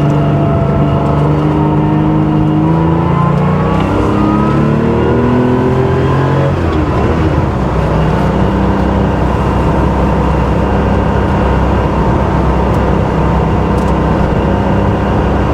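Porsche 911 SC's air-cooled flat-six, with a 3.2-litre short-stroke conversion and a GT3-style exhaust, pulling hard under acceleration. The revs climb, drop at an upshift about four seconds in, climb again and drop at a second shift near seven seconds, then the engine runs steadily at cruise.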